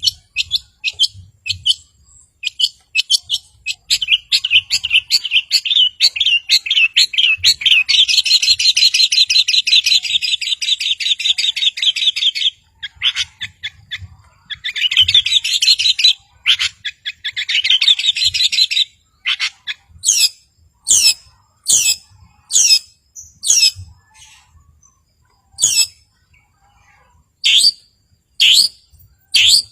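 Long-tailed shrike (cendet) singing. Quick short notes lead into a long, fast chattering run of notes a few seconds in, then a second run. Near the end come sharp downward-sweeping calls about once a second.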